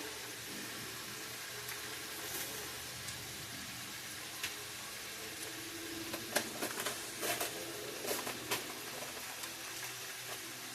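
Chicken drumettes deep-frying in hot oil: a steady sizzle, with a few light clicks and knocks in the second half.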